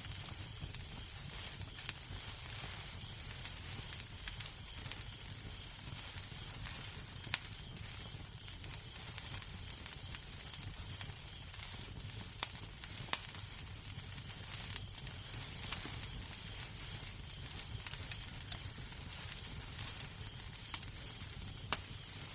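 Wood fire crackling in a fireplace: a steady soft hiss with scattered sharp pops every second or few seconds, over a low rumble.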